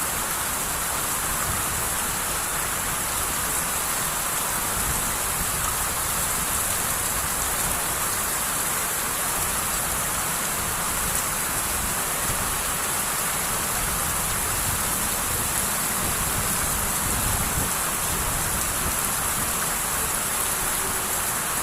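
Heavy tropical downpour: steady, unbroken hiss of rain with a low rumble underneath.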